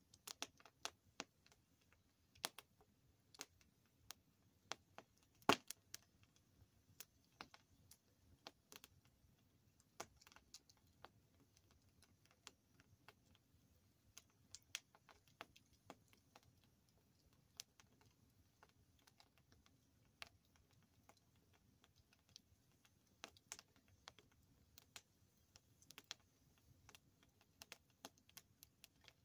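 Campfire burning: wood crackling and popping in sharp, irregular clicks, several a second, with one louder pop about five and a half seconds in, over a faint low hiss of the fire.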